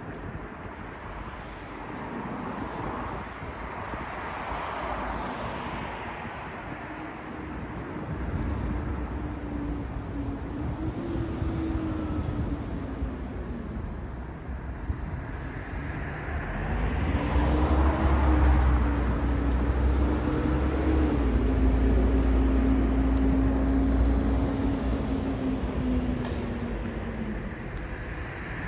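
Road traffic on a city street: vehicles pass with a rushing noise, and twice a large vehicle's engine drones with a deep rumble, the louder time in the second half.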